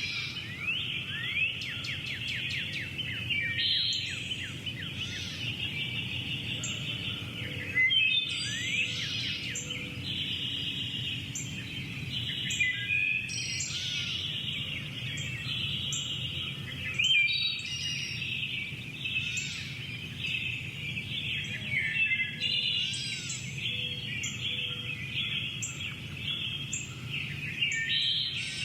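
Bird-chorus ambience: many birds chirping, whistling and calling over one another without a break, over a steady low background hum.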